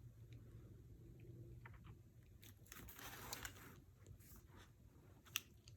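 Faint rustling of paper being handled, then a single sharp click near the end.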